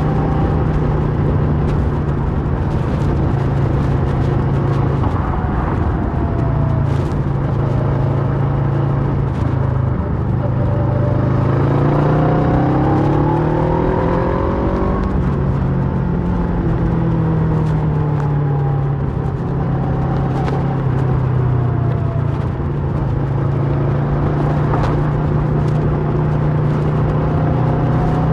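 Kawasaki Versys 650 parallel-twin engine running through a Mivv slip-on exhaust while riding. The engine note climbs about eleven to fifteen seconds in as the bike accelerates, then eases back down.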